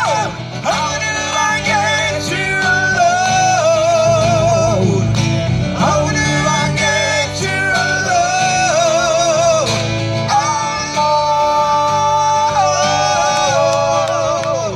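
Live acoustic music: guitar accompaniment under a high melodic line that holds long notes with vibrato.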